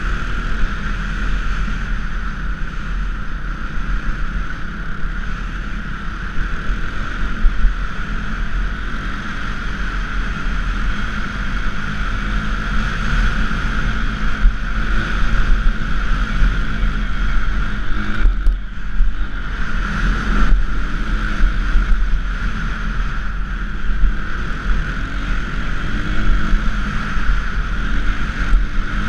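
Small 230cc dirt bike engine running under way, with wind rushing over the microphone. The sound drops briefly about two-thirds of the way through, then picks up again.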